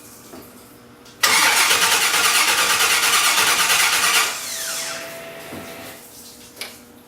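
Electric starter cranking the engine for about three seconds without it catching, then cutting out abruptly and spinning down with a falling whine. The cranking stops on its own, which the owner puts down to something going on with the push button. A short click near the end.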